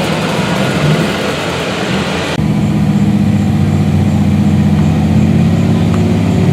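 Modified diesel pickup truck engine running, a steady drone. About two seconds in the sound changes abruptly: the hiss above it drops away and a steady, slightly louder engine tone is left.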